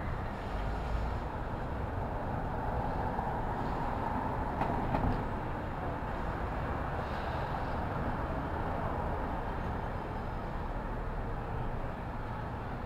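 New York City street ambience: a steady rumble and hiss of traffic.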